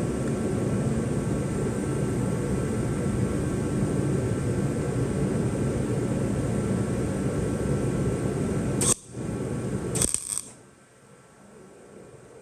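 Electric welder running, welding a steel sway bar bracket onto the car's frame: a steady noise that cuts off sharply about nine seconds in, followed by one short burst a second later.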